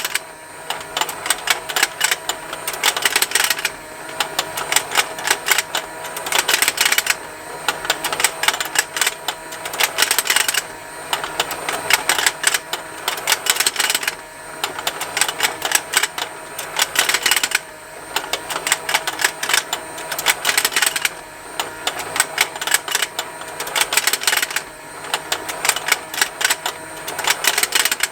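Plastic rotating fishing game toy running, its motor and gears making a continuous rapid ticking with the plastic fish snapping. The clatter swells louder for about a second roughly every three and a half seconds as the pond turns.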